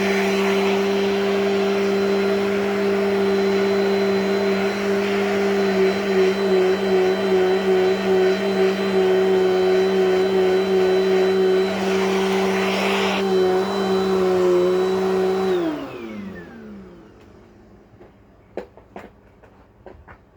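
Dirt Devil Dynamite Plus hand vacuum running with a steady motor whine and airflow hiss, its pitch wavering slightly in the middle as the suction load changes. It is switched off about fifteen seconds in, the motor winding down with a falling pitch, and a few light clicks follow near the end.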